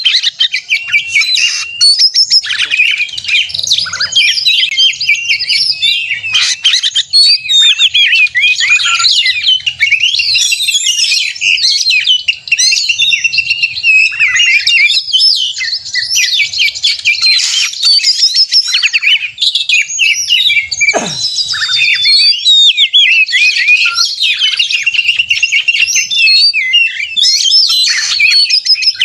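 Oriental magpie-robin (kacer) in full, intense song: a dense, unbroken stream of fast, varied chirps, trills and whistled phrases. A brief sharp downward-gliding sound cuts through about two-thirds of the way in.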